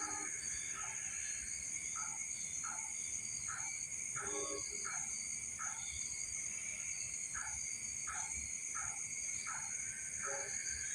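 Night-time insect chorus of crickets, a steady high-pitched trilling, with a short call repeating about twice a second over it.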